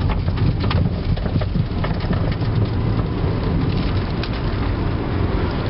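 1997 Toyota Avalon driven over a rough road edge, heard from inside the cabin: steady tyre and road rumble with scattered clicks and knocks from the front suspension. The owner takes the rattle for a worn upper strut mount on the front passenger side.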